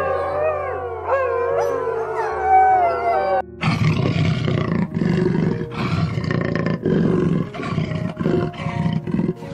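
Wolves howling together, their long voices wavering and gliding. About three and a half seconds in this cuts abruptly to two snow leopards snarling and growling at each other in a string of harsh, rasping bursts.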